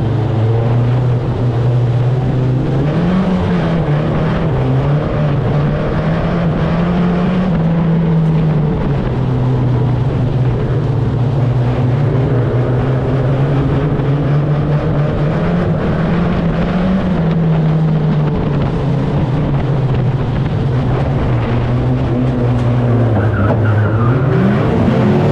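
A 2-litre banger race car's engine heard from inside the stripped cabin, running at low, uneven revs that rise and dip a little and climb in pitch near the end.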